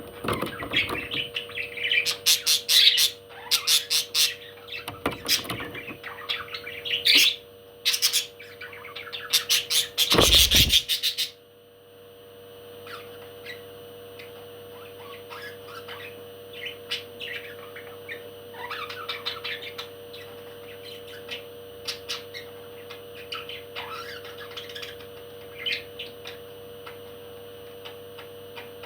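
A parrot squawking and chirping loudly, with several harsh screeches in the first eleven seconds or so. After that only soft, scattered chirps are heard over a steady hum.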